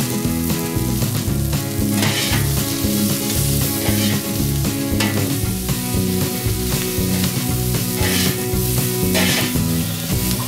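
Sliced red and white onions sizzling on a hot flat-top griddle, with a spatula scraping across the plate and turning them several times. Background music plays under the sizzle.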